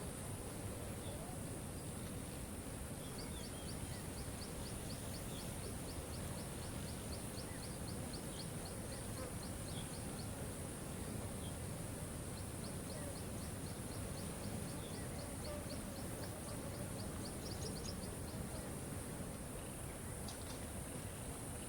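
Waterfall rushing steadily, with birds chirping over it. A bird repeats a short high note about four times a second in two long runs, the first starting a few seconds in and the second after a short pause.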